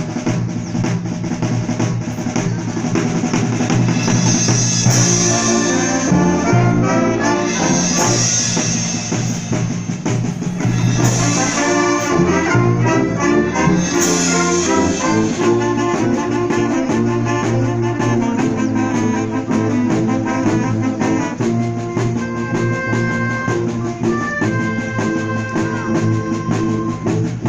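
Symphonic wind band playing loudly, led by brass with drum kit and percussion; sharp crashes come roughly every three seconds in the first half, and longer held notes follow near the end.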